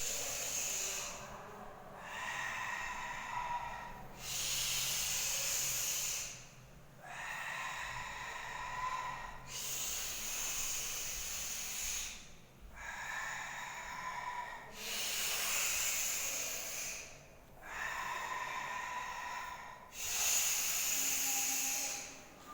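A person doing forceful, audible breathing-exercise breaths through the nose and mouth, hissing in and out in a steady rhythm. There are about nine breaths of roughly two seconds each, with short pauses between them, and every other breath carries a faint whistling tone.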